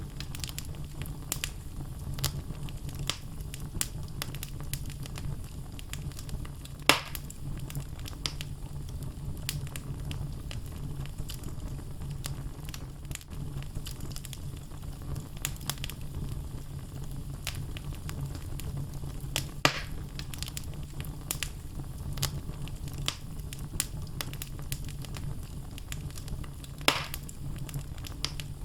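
Wood fire burning in a fireplace: logs crackling with frequent small snaps over a low, steady rumble of flame, and three louder pops spread through.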